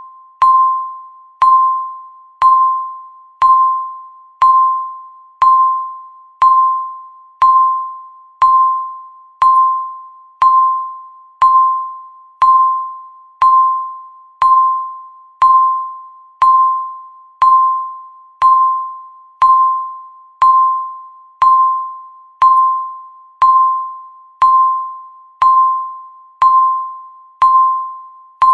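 Countdown timer's tick: a sharp electronic beep-like chime near 1 kHz, struck about once a second, each stroke dying away before the next.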